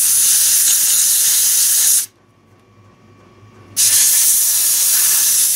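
Steady hiss of a heat tool blowing on heat-shrink tubing over a soldered wire joint. It cuts off about two seconds in and comes back on under two seconds later.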